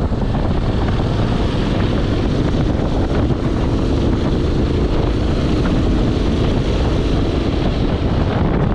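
Motorcycle on the move: its engine running under loud, steady wind rush buffeting the microphone.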